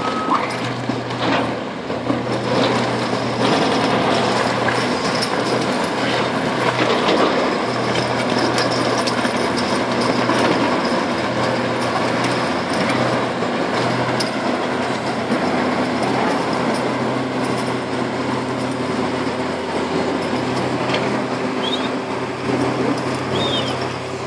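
Heavy diesel quarry machinery working under load: a steady engine drone with scattered knocks and clanks, and a reversing alarm tone that stops just after the start.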